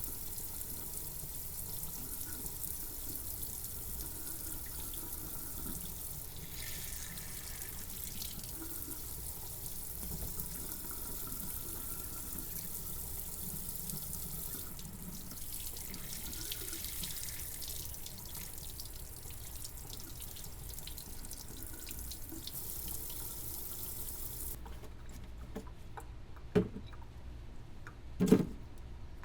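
Water running steadily from a tap or spray, as when rinsing degreased parts, then shutting off abruptly near the end. Two sharp knocks follow a couple of seconds apart.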